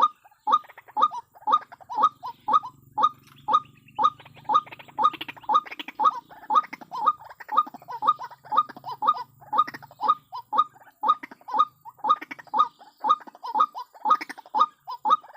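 White-breasted waterhen calling: a steady run of short, harsh repeated notes at about three a second. A low hum runs underneath twice, for a few seconds each time.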